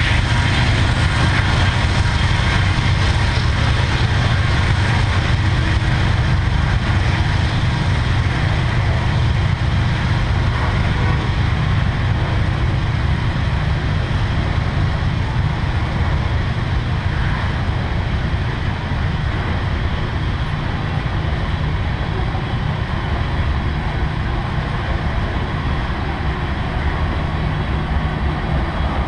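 Freight train of tank cars rolling past, a steady rumble of steel wheels on rail.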